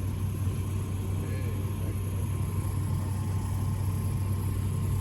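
A steady low engine drone that holds at an even pitch and level, with no revving or passing.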